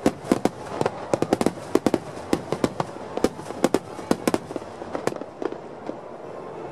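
Fireworks bursting in rapid succession, a dense run of sharp cracks and bangs that thins out near the end.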